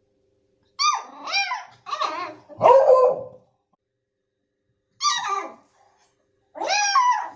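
A dog barking and yelping in short, pitched calls that rise and fall, in several bursts with a pause of about a second and a half in the middle.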